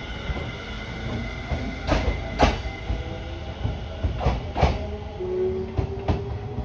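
Electric train running on jointed track, its wheels clacking over the rail joints in pairs, three times, over a steady rumble. A faint whine rises slowly in pitch near the end.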